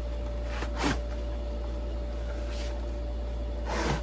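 Cardboard packaging being handled as the box of ceiling fan blades is opened: a short scrape about a second in and rustling near the end, over a steady low electrical hum.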